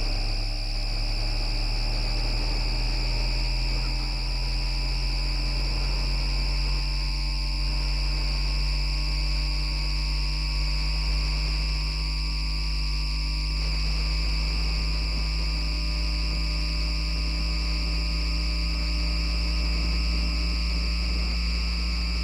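MITRAC IGBT VVVF inverter and traction motors of an FGV Class 4200 Bombardier Flexity Outlook tram whining as it picks up speed: a cluster of tones rises in pitch, quickly in the first few seconds and then more slowly until it nearly levels off. Underneath runs a steady low rumble with fixed high-pitched tones.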